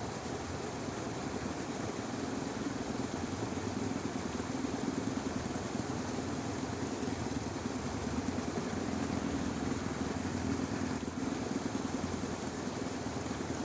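Dense chorus of rice-paddy frogs calling together as one steady, rough, low churring that never lets up.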